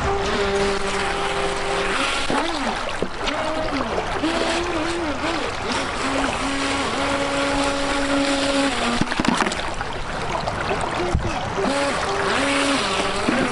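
Small RC jet boat's electric motor whining, its pitch held and then sliding up and down as the throttle changes, over the rush of a creek.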